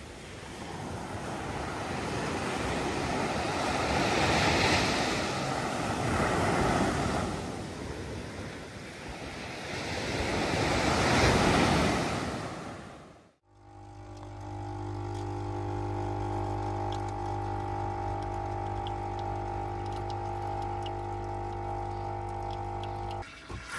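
Ocean waves washing onto a beach, swelling and falling several times. About thirteen seconds in, this cuts off abruptly to steady background music holding a sustained chord.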